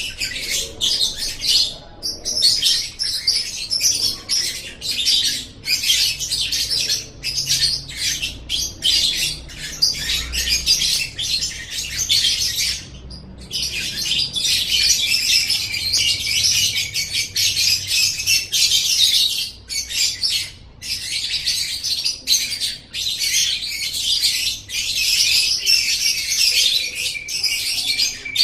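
Lovebird singing a long, rapid, high chattering trill that runs almost without a break. It pauses briefly three or four times, around 2, 13 and 20 seconds in.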